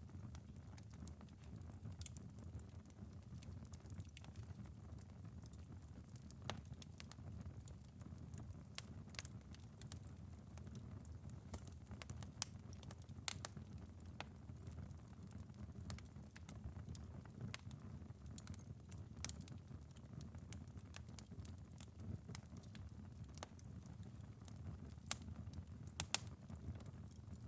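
Wood fire crackling in a fireplace: a steady low rumble of burning with irregular sharp pops and snaps, a few louder ones near the end.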